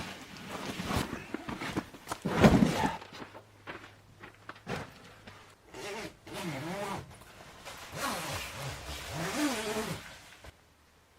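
A zipper pulled in several long rasping strokes whose pitch rises and falls, with fabric rustling and a louder knock about two and a half seconds in.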